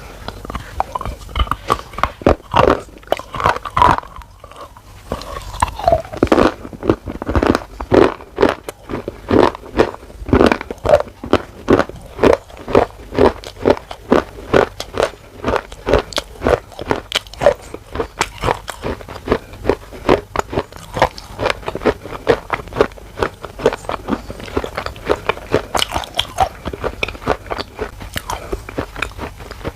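Someone biting and chewing a hard, brittle black cube of slate-pencil-like material close to the microphone: a long run of sharp crunches, roughly two to three a second.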